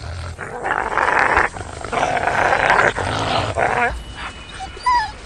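Wolves snarling and growling in three harsh bursts over about four seconds.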